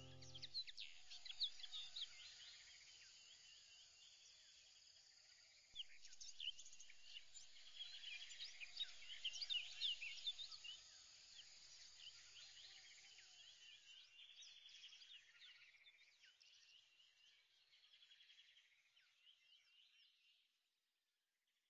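Faint chirping of many small birds, picking up about six seconds in, then thinning and fading away just before the end.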